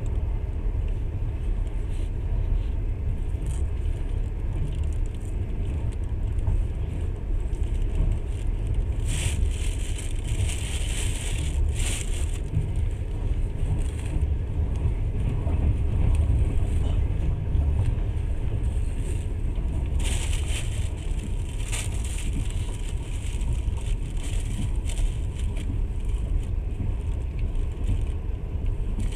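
Passenger train running, a steady low rumble of wheels on track heard from inside the carriage, with stretches of higher hiss about nine to twelve seconds in and again around twenty seconds in.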